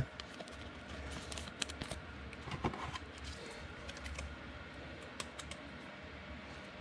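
Faint, light clicks and taps, scattered and clustered about two to three seconds in, over low background noise.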